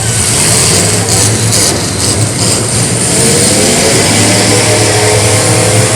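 Demolition derby cars' engines running loud, with one engine revving up in the second half, its pitch rising.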